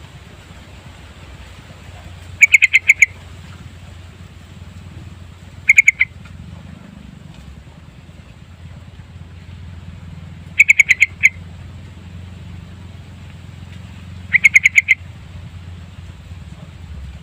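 Yellow-vented bulbul calling: four short bursts of quick repeated notes, each about half a second long and a few seconds apart, over a steady low hum.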